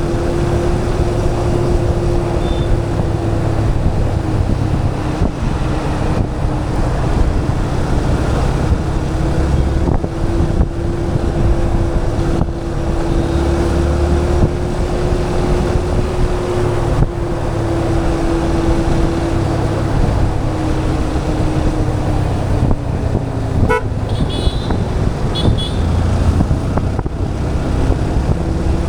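Motorcycle riding through city traffic: a steady engine drone with road rumble. A few short, high beeps sound about three-quarters of the way through.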